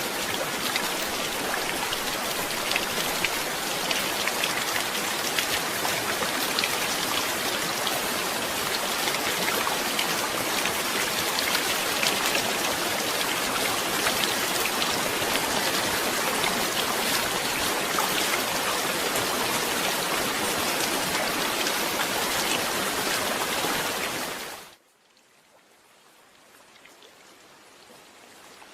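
Steady heavy rain, a dense hiss of drops with fine patters. Near the end it drops off sharply to a faint hiss that slowly grows again.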